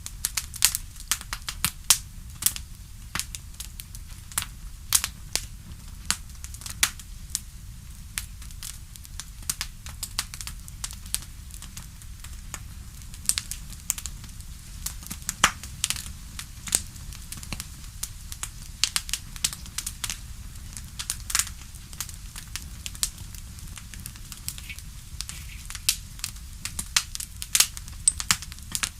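Campfire crackling: wood burning with irregular sharp pops and snaps over a low steady rumble.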